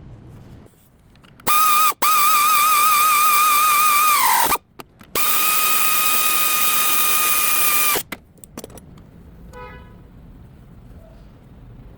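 Electric power tool motor whining at high speed in two runs: the first with a wavering pitch that falls away as it stops, the second steady and cut off near the two-thirds mark.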